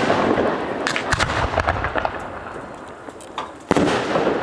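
Aerial fireworks: a shell burst echoing out, a scatter of sharp crackling pops, then another loud shell bang near the end.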